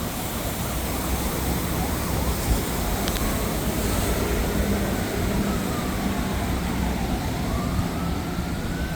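Emergency vehicle siren wailing, slowly rising and falling in pitch, starting about three seconds in, over steady city traffic noise.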